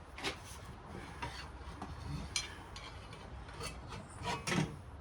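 Light scraping, rubbing and clicking of metal saw parts being worked by hand, in scattered short strokes with a louder scrape near the end.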